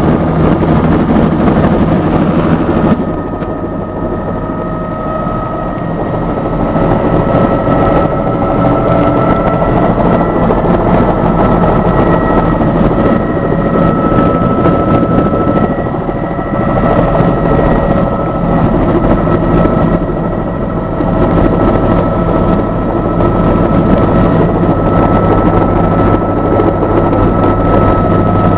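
Helicopter turbine and rotor noise heard aboard in flight: a steady, loud drone with a constant high whine, dipping briefly in loudness about three seconds in.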